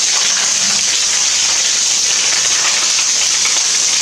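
Heavy rain pouring down and pattering on hard surfaces, a steady, even hiss of a downpour.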